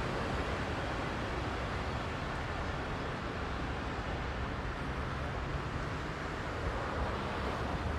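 Heavy rush-hour city traffic: a steady wash of engines and tyre noise from many vehicles, with a low engine hum underneath.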